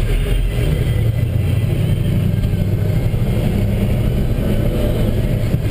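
Chevrolet 350 small-block V8 in a 1963 Chevy C10 pickup running under way, with steady engine and road noise heard from inside the cab.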